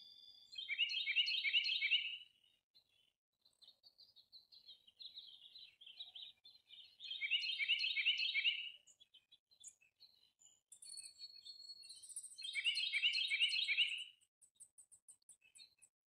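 A songbird singing three loud phrases of fast, repeated chirping notes about five to six seconds apart, with softer chirps in between. A thin, high, rapid trill joins in the second half.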